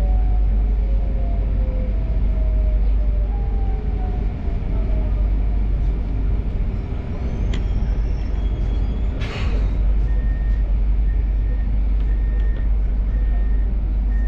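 Electric regional train braking to a stop at a station, heard from inside the carriage over a steady low rumble: the traction motors' whine falls in pitch as it slows. About nine seconds in, after it has stopped, there is a short hiss of air. Then comes a run of short, evenly spaced beeps, about two a second, typical of a door-release signal.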